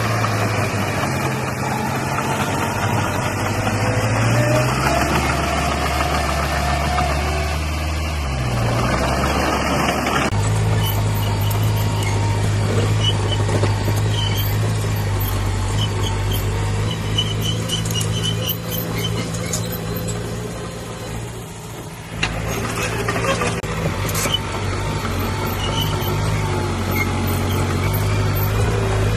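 Heavy diesel earthmoving machinery running steadily under load, its engine hum shifting pitch a few times. Abrupt changes about ten seconds in and again about twenty-two seconds in.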